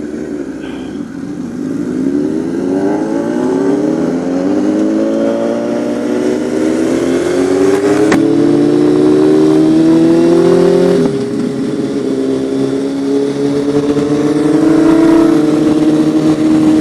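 Motorcycle engine accelerating under way, its pitch climbing steadily. About eleven seconds in the pitch drops suddenly as it shifts up, then it pulls on at a steady, slowly rising note.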